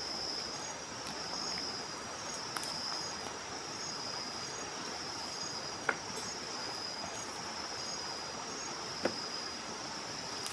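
Crickets trilling in a steady, high, pulsing chorus. Three faint clicks are spread through it.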